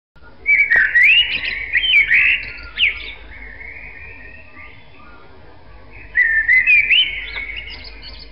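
A songbird singing two quick phrases of rapidly rising and falling notes, the first about half a second in and lasting a couple of seconds, the second about six seconds in.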